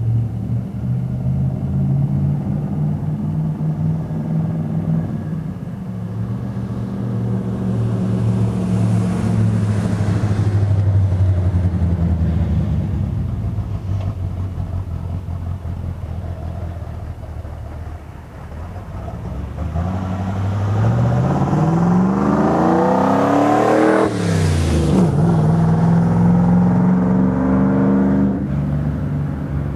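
1974 Dodge D100's rebuilt 361 big-block V8 running through dual Pypes M80 mufflers, with open pipes dumping ahead of the rear axle. It runs steadily for the first part. Later the revs climb sharply to a peak about three-quarters of the way in, drop suddenly and settle into a steady run again.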